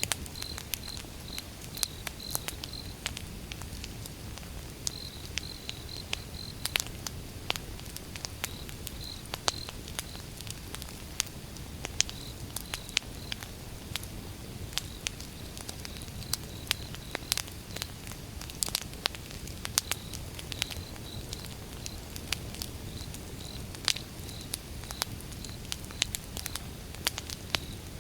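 Outdoor wood fire burning, with irregular sharp crackles and pops over a low steady rumble. Behind it, an insect chirps in short high-pitched pulses.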